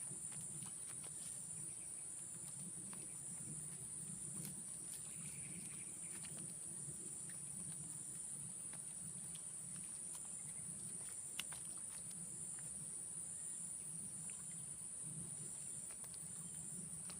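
Insects droning steadily at a high pitch, with a second insect chirping in an even pulse just below it, over a low rumble and a few faint clicks.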